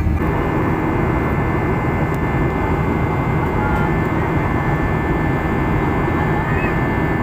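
Jet airliner noise, engines and rushing air, steady and loud with no change in pitch.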